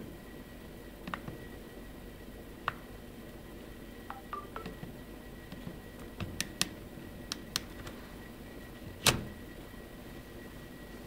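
Nokia N85 slide phone being handled: scattered sharp clicks and knocks from its slider and casing, the loudest about nine seconds in, with a few short electronic beeps around four seconds in.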